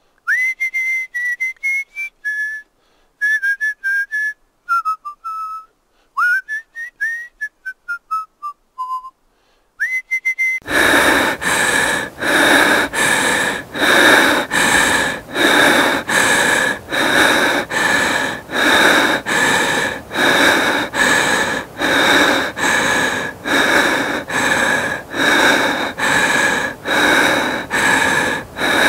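A person whistling with the lips, a string of short notes that slide up and down in pitch. About ten seconds in it gives way to a louder, rhythmic, breathy rasp made with the mouth and throat, about three strokes every two seconds.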